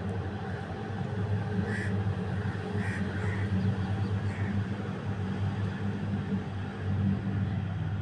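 A few short bird calls, about four in the first half, over a steady low rumble.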